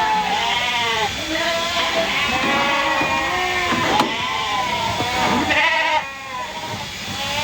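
Several sheep bleating, their calls overlapping at different pitches, with a sharp click about four seconds in.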